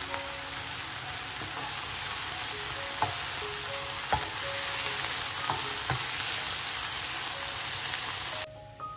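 Sliced onions and mushrooms sizzling as they fry in oil in a nonstick frying pan, stirred with a wooden spatula that clicks against the pan a few times in the middle. The sizzling cuts off suddenly near the end.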